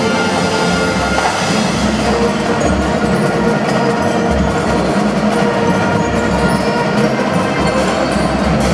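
Marching drum band playing continuously, with drums beating in a steady rhythm under the band's melody.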